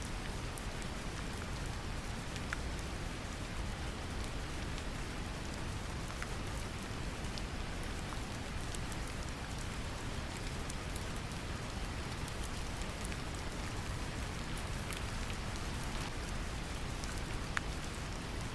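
Steady brown noise, a deep even rumble, mixed with gentle rain: scattered light drop ticks over a constant hiss.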